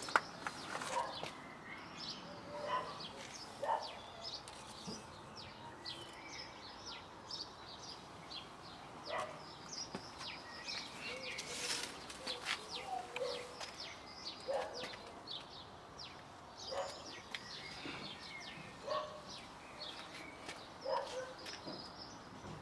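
Small garden birds chirping and twittering, with occasional rustles and light knocks from someone moving among the plants.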